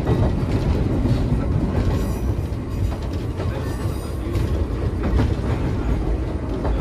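Running sound inside a Nagano Electric Railway 3500 series train (ex-Teito Rapid Transit 3000 series) in motion: a steady low rumble from the wheels and running gear, with a few faint clicks.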